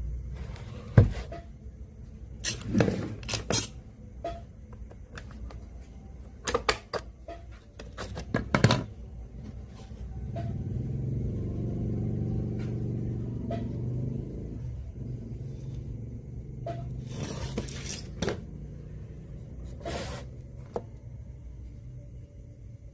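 Knocks, clicks and scrapes of a radio cassette player and small parts being handled during repair, with a low hum for several seconds in the middle.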